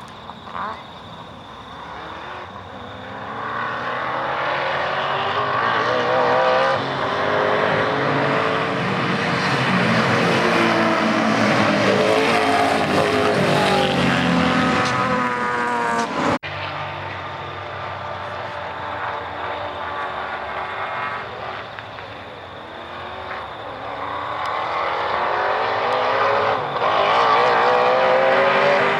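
Mercedes-Benz W126 500 SEC race car's engine under hard acceleration, its pitch climbing and stepping back as it goes up through the gears. The sound cuts off abruptly about 16 seconds in, then the engine climbs through the revs again.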